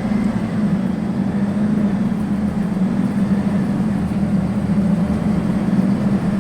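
Scania N280UB city bus's compressed natural gas engine running steadily, heard from inside the passenger cabin as a constant low drone over a low rumble.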